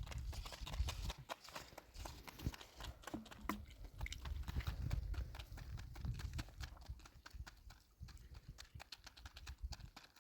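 A rapid, irregular run of clicks and knocks over a low rumble.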